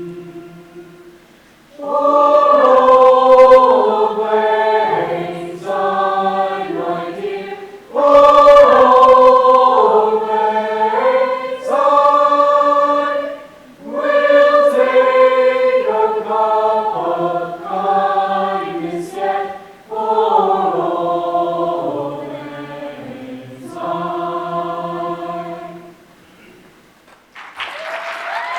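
High school choir singing in four phrases of about six seconds each, the last one softer, ending with a held chord about 26 seconds in. The audience breaks into applause near the end.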